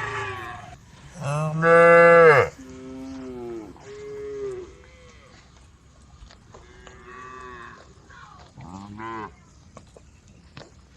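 Cows mooing: a loud, long moo about a second in, followed by several shorter, quieter moos.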